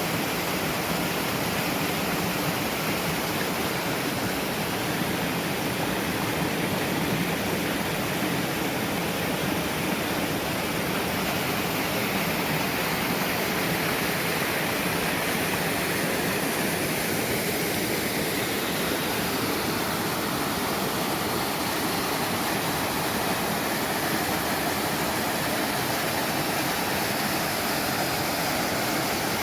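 Mountain stream rushing steadily, a constant, unbroken sound of flowing water.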